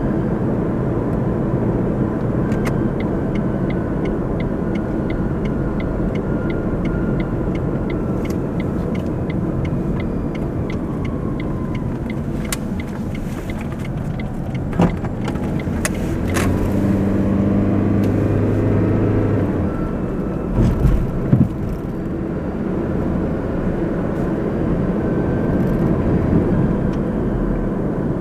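Car driving, with steady road and engine noise throughout. A regular ticking runs for several seconds near the start, and there are a few sharp knocks around the middle.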